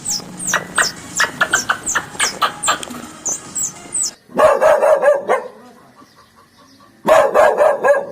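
A bird chirping rapidly in short, high, falling notes for the first few seconds, then two bouts of a dog barking rapidly, each about a second long.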